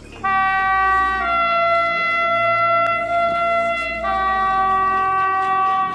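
Train air horn sounding one long blast of about five and a half seconds, several tones at once, its chord shifting about a second in and shifting back about four seconds in before it cuts off.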